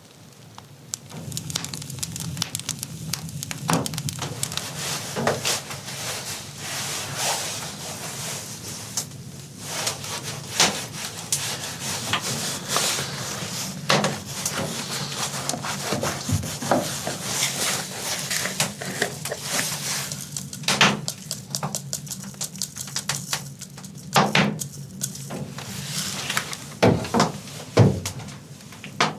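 Wood being handled and broken: a long run of irregular knocks and cracks with scraping and rubbing in between, over a low steady hum.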